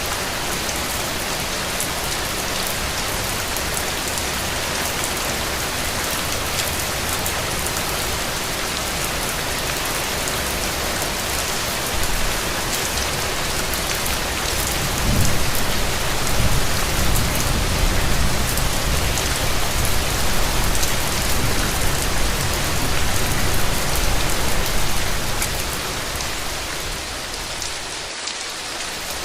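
Steady rain falling on hard surfaces. About halfway through, a low rumble swells and then fades out a few seconds before the end.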